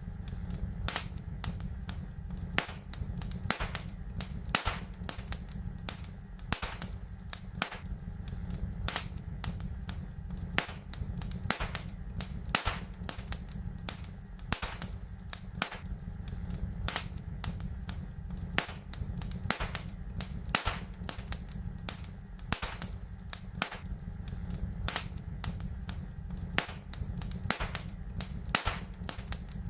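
Wood fire in a fireplace crackling: sharp pops and snaps at irregular intervals, a few each second, over a steady low rumble of the burning.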